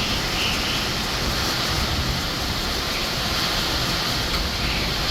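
Steady rush of hurricane wind and rain.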